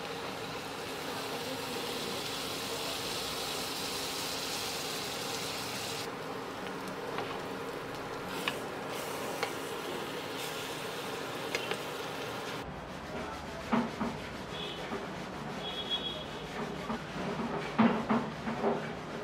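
Bread rolls frying on a hot griddle: a steady sizzle with occasional clicks and scrapes from a spatula. About twelve seconds in, the sizzle gives way to a few sharper knocks and clicks.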